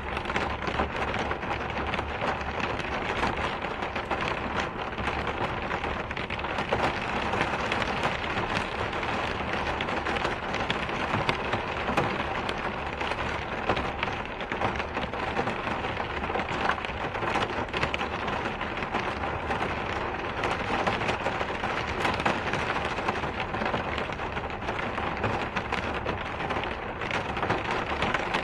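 Steady rain: a dense, even hiss of falling rain, with many small drop ticks scattered through it.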